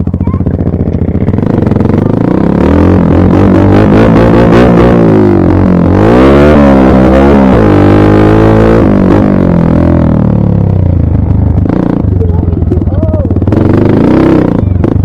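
Dirt bike engine running loud and close, its revs rising and falling several times as it is ridden.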